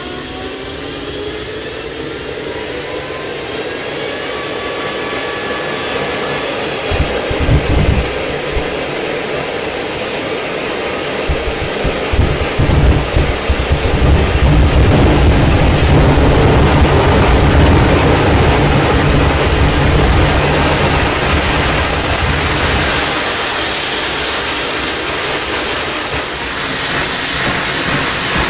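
Homemade KJ66-type model turbojet running with a loud high turbine whine over a rushing roar. The whine climbs in pitch as the engine spools up, eases a little, then climbs again over about ten seconds and holds high near the end, the engine accelerating under throttle.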